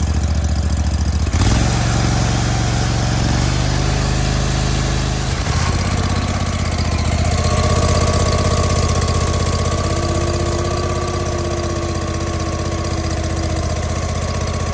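Briggs & Stratton Vanguard 37 hp big-block V-twin on a zero-turn mower running at full throttle, revved all the way up. Its sound steps up suddenly about a second and a half in and shifts again about five seconds in, after which a steady whine rides over the engine.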